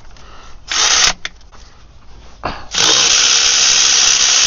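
Power tool running in two bursts: a short one under half a second long about a second in, then a steadier run of about two and a half seconds that starts sharply, with no speech over it.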